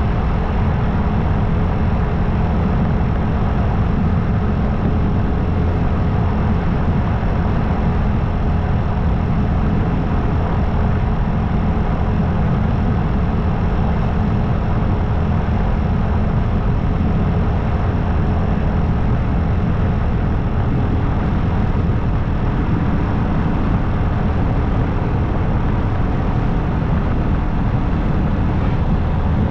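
Motorcycle riding steadily at highway speed: a constant rushing drone, heaviest in the low end, with faint steady tones running through it.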